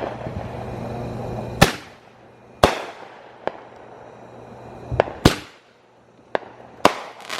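Consumer firework cake firing its aerial shots: a string of sharp bangs at uneven intervals, some louder than others, each trailing off in an echo. A low steady hum under the first couple of seconds stops before the second bang.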